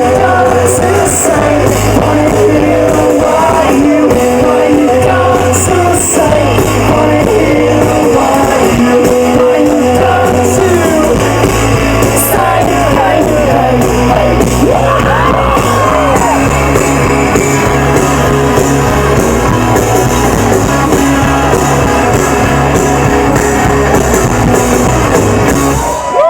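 Rock band playing live, with electric guitar, bass and drums under sung vocals, loud and steady through a phone's microphone.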